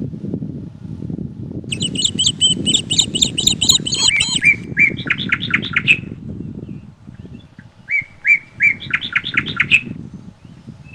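A songbird sings two phrases of rapid, repeated chirping notes, the first starting about two seconds in and the second past the middle, over a steady low rumble of wind.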